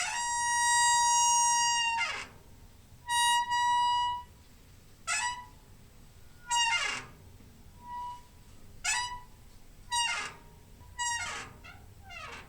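Door hinge squeaking again and again: one long squeal lasting about two seconds, then a run of about seven shorter squeaks. Each is a high, steady note that slides downward as it ends.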